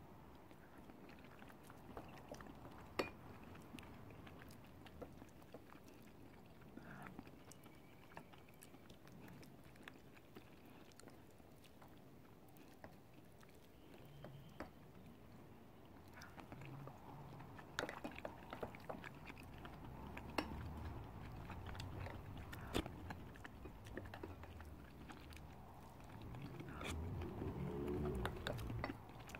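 Close-miked eating: soft chewing and mouth sounds of rice and curry being eaten, with scattered light clicks and scrapes of a wooden spoon in ceramic bowls. The chewing grows louder in the second half.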